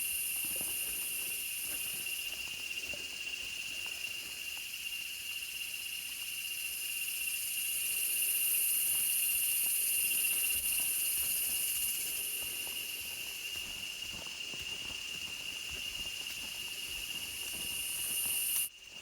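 Tropical jungle insects droning: a steady high-pitched whine under a higher buzzing chorus that swells around the middle and eases off.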